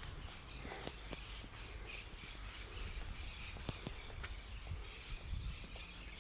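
Faint outdoor background noise with scattered soft clicks and rubbing from footsteps and the handling of a handheld phone being carried.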